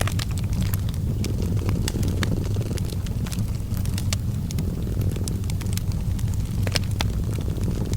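A cat purring, a low steady rumble that swells and eases slowly, mixed with a wood fire crackling in frequent sharp pops and snaps.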